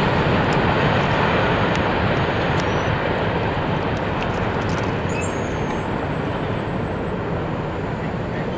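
Steady rumble of a freight train rolling away past a grade crossing, slowly fading.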